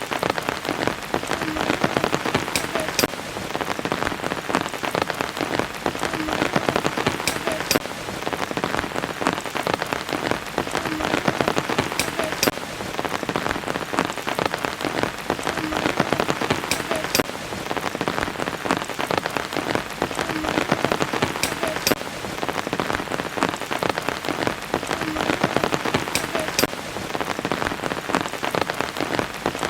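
Steady rain falling, a dense patter of drops with a few sharper drips that recur about every five seconds.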